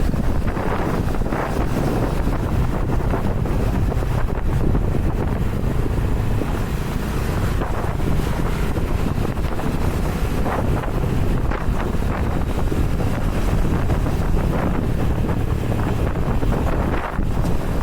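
Wind rushing over the microphone of a moving motorcycle, with the engine's low steady drone underneath.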